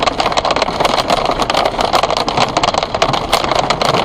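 Hailstones pelting down hard in a severe hailstorm: a loud, continuous clatter of countless rapid impacts.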